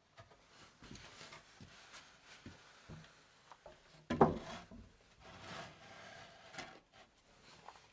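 Objects being handled on a hard surface: scattered light knocks and rubbing, with one sharp, louder knock about four seconds in.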